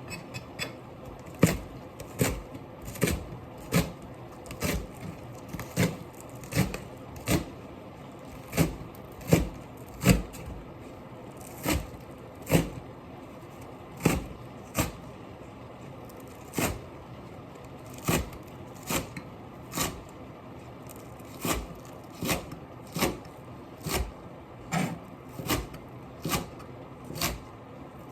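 Knife chopping ingredients on a cutting board, sharp single knocks about one or two a second at uneven spacing.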